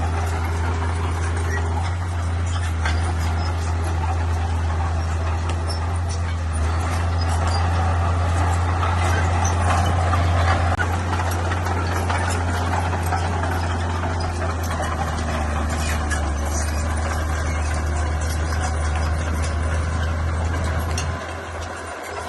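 Bulldozer's diesel engine running steadily as it works, swelling louder partway through and dipping briefly near the end.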